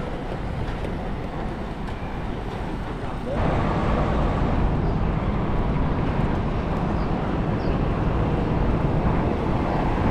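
City street traffic noise and wind rushing past while cycling along a street, a steady dense rumble that grows louder about three seconds in.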